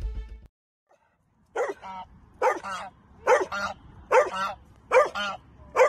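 Geese honking in a steady rhythm: a loud honk answered at once by a softer one, about six times, nearly once a second.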